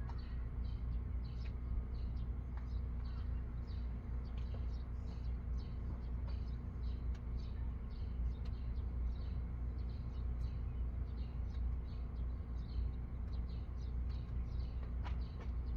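Small birds chirping, many short high chirps in quick succession, over a steady low mechanical hum.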